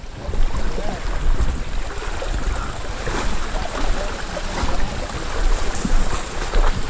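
Moving river water rushing around a kayak, a steady noisy wash with a low rumble underneath.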